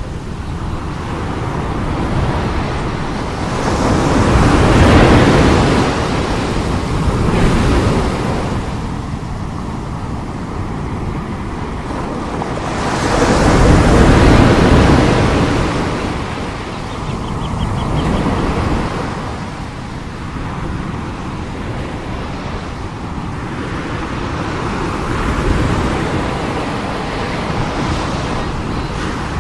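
Heavy sea surf: big waves breaking and rushing onto the shore in a continuous roar that swells and ebbs every few seconds. The two biggest surges come about five seconds in and near the middle.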